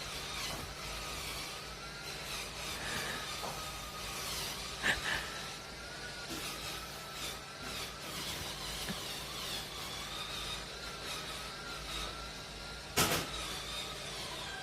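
Electric cleaning machine's motor running with a steady, slightly wavering whine, broken by a sharp knock about a third of the way in and another near the end.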